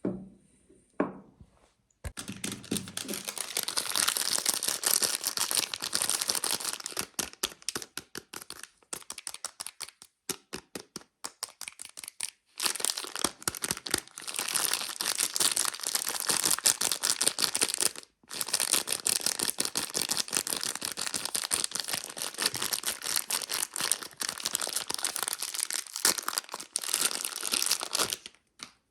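Soap wrapper being crinkled and torn open by hand: dense, crisp crackling that starts about two seconds in, thins to scattered crackles for a few seconds in the middle, pauses briefly, and stops just before the end.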